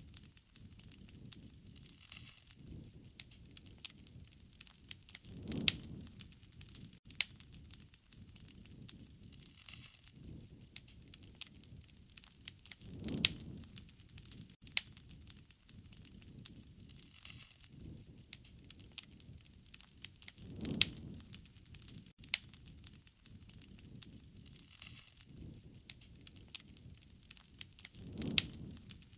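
Wood fire crackling, with sharp pops and snaps over a soft hiss of flame. A low rushing swell rises and fades about every seven and a half seconds.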